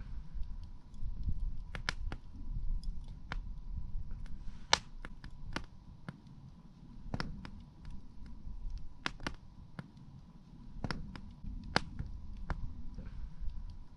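Wood campfire crackling: about a dozen sharp, irregular pops and snaps over a low rumble, with a faint steady high tone underneath.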